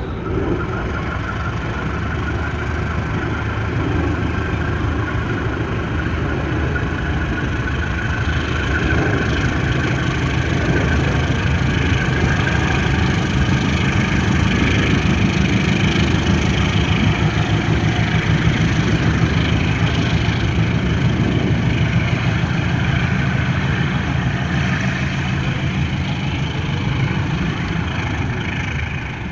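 Diesel passenger train pulling away from a halt: a steady low engine drone with the clatter of wheels on the track, swelling in the middle and easing near the end as the train draws off.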